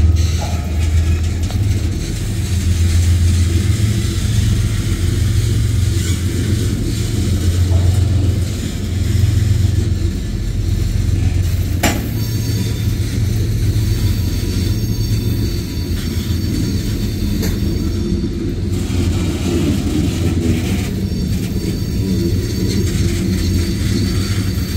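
Freight train cars (covered hoppers, a tank car and boxcars) rolling past, a steady low rumble of wheels on rail, with one sharp click about halfway through.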